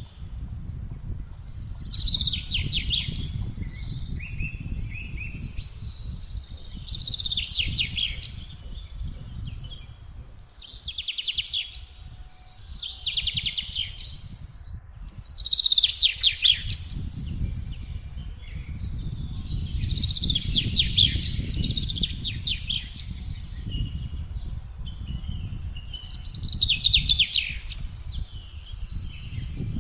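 Wind blowing as a low rumble, easing for a few seconds near the middle, while songbirds sing short, fast trilled phrases that repeat every two to three seconds.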